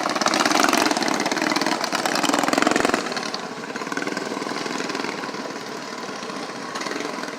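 Antique tractor engine running with a rapid, even firing beat, louder for about the first three seconds and then dropping to a quieter steady run.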